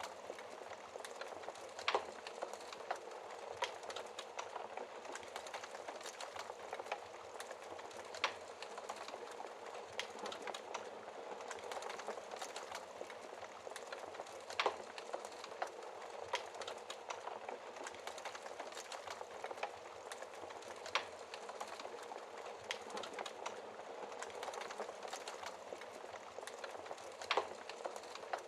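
Wood fire burning in a fireplace: a steady fine crackle with sharp pops every few seconds, a few louder ones standing out.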